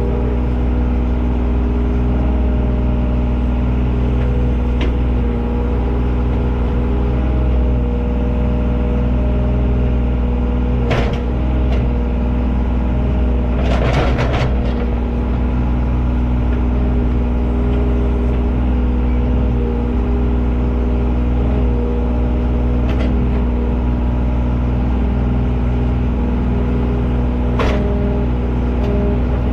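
A heavy machine engine running steadily at constant speed, with a few short knocks and clanks over it about a third, halfway and near the end.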